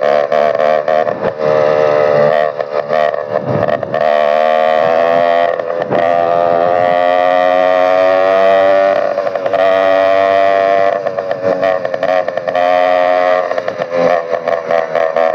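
Motorized bicycle engine running loud through an open exhaust pipe with no muffler, under throttle while riding. Its pitch climbs about four seconds in, holds high for several seconds, then drops back to an uneven, choppier note.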